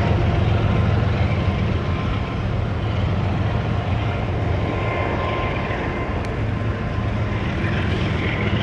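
Freight train of autorack cars rolling past on a railroad bridge: a steady low rumble of steel wheels on the rails.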